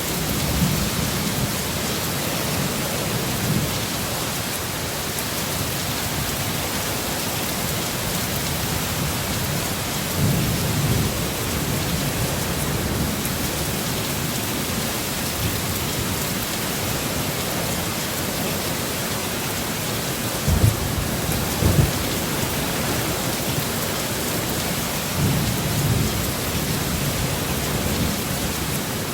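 Heavy rain in a steady, dense hiss, with low rumbles of thunder rising and falling several times; two sharper, short low thuds come about two-thirds of the way through.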